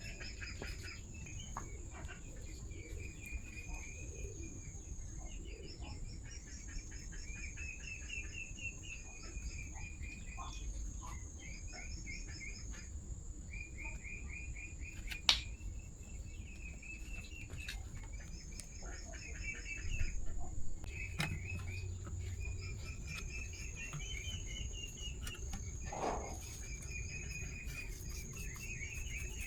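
Insects chirping in repeated short trills over a steady high-pitched buzz, with scattered sharp clicks and a brief knock about twenty seconds in.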